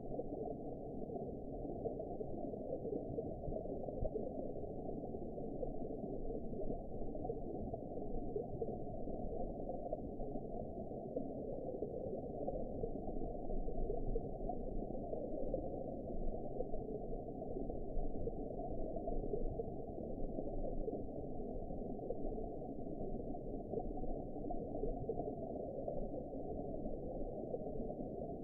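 Ambient underwater sound: a steady, muffled low rush with faint bubbling and crackle, with nothing above the low range.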